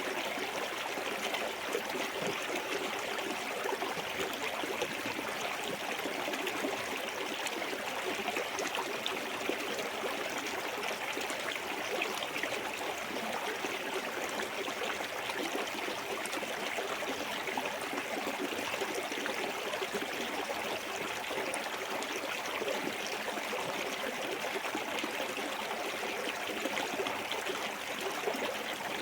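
Clear forest stream running over a small waterfall: steady splashing and trickling of water.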